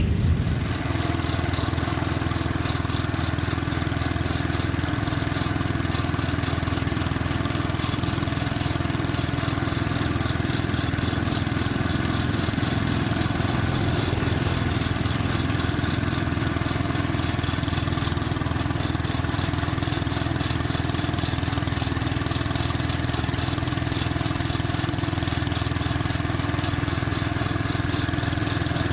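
Small garden tractor engine running steadily at constant speed.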